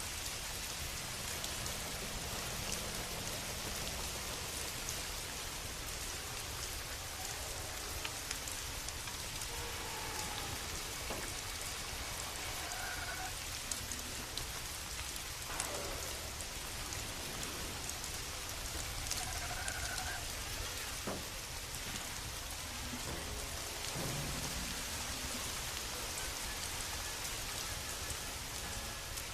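Steady rain falling, a continuous even hiss of drops on surfaces, with a few faint sharp clicks scattered through it.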